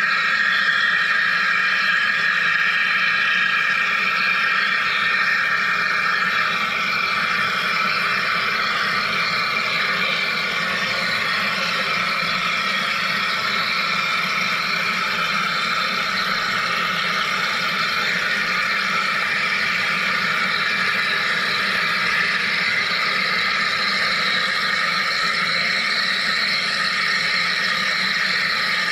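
Wire EDM machine running through a cut: a steady, unchanging hiss with a low hum underneath.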